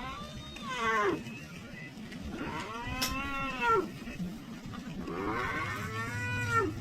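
A large animal giving low, moo-like calls: three drawn-out calls, each a second or so, that rise and then fall in pitch.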